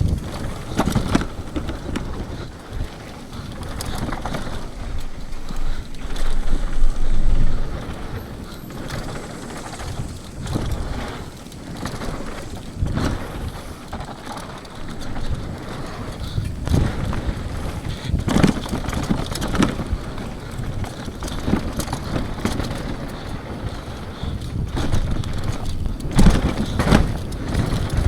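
Downhill mountain bike ridden fast down a dirt trail: wind buffeting the microphone, tyres on dirt and the bike rattling over rough ground, with repeated knocks from bumps and landings, loudest about six to eight seconds in and again near the end.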